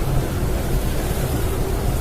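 Blizzard wind blowing as a steady, heavy low rush.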